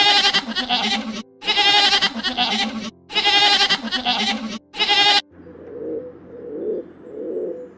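Domestic goats bleating: four long, wavering bleats back to back, the last cut short about five seconds in. Then a crowned pigeon's low cooing, repeated about once a second.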